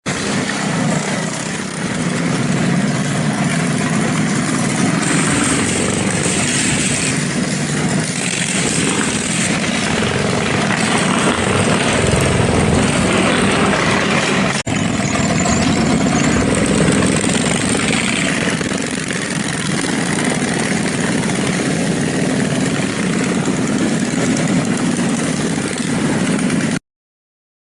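Mini bike engines running steadily, with a brief dropout about fifteen seconds in; the sound stops abruptly near the end.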